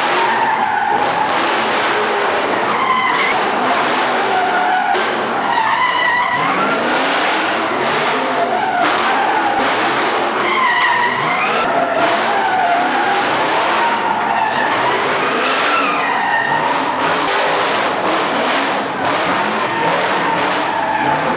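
Car tyres screeching continuously on pavement, the screech wavering in pitch, with the engine revving up and down beneath it as a car spins its wheels.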